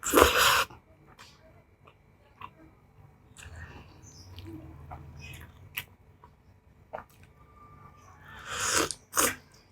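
Close-up eating sounds of spicy instant noodles: a loud rushing intake right at the start and two more close together near the end, with small mouth clicks of chewing in between.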